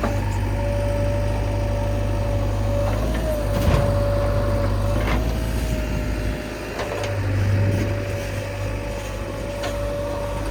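Heavy diesel machinery running steadily, with a constant whine over the engine and a few metallic clunks about a third and halfway through.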